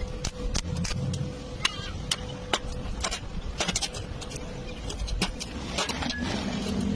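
Irregular sharp clicks and taps, a few a second, over a steady hum and a low rumble.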